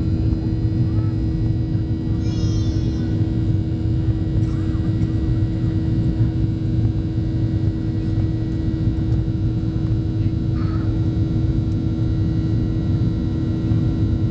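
Cabin noise of a Boeing 737-700 climbing after take-off: a steady drone from its CFM56-7B turbofans and the airflow, with a constant hum.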